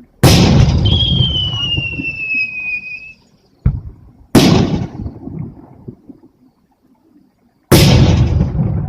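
Aerial fireworks shells bursting: three loud booms, each trailing off in a rumble, with a short sharp crack just before the second. A thin high whistle, falling slightly in pitch, sounds for about two seconds after the first boom.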